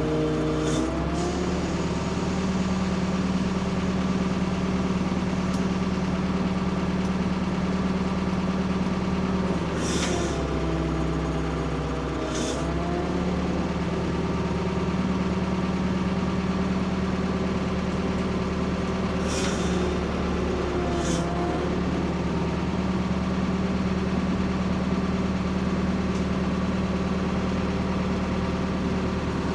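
Ford P-42 excavator's engine running steadily while the machine works. Three times the engine note dips and a high hiss comes in as the hydraulics take load, then the engine picks back up.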